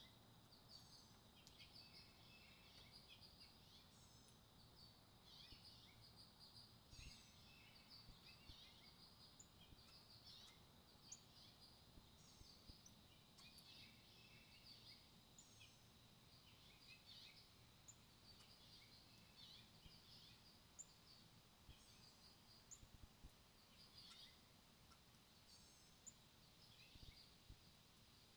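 Faint wild songbirds chirping and calling, many short quick notes and pitch sweeps coming irregularly, over a soft steady high whine and low outdoor background hiss.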